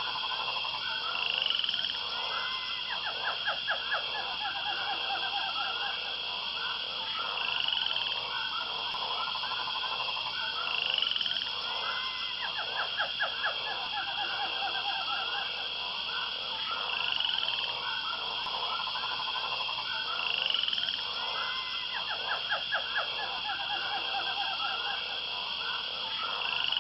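Animal calls, croaks in rapid pulse trains with short rising chirps, repeating as a loop about every ten seconds.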